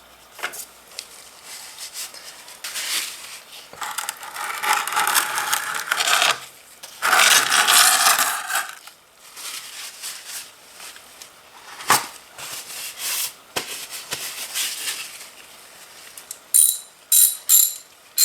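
Small metal parts and hand tools clinking, scraping and rattling as a motorcycle oil drain plug with its washer is fitted and screwed back in, with a quick run of sharp, ringing metal clicks near the end.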